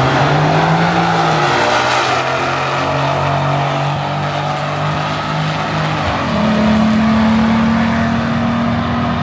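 Loud car engines on a racetrack, revving up and holding steady revs, with a step up to a higher held engine pitch about six seconds in.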